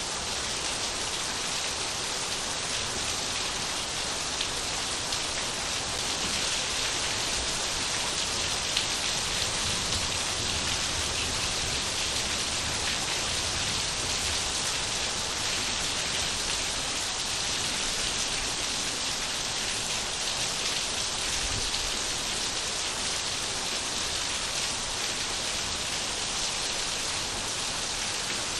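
Steady rain falling on surfaces, an even patter of many drops with no let-up.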